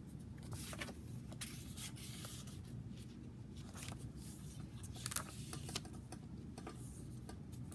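Faint rustling and light tapping of paper and card as a handmade junk journal's pages and tucked pieces are handled, over a steady low room hum.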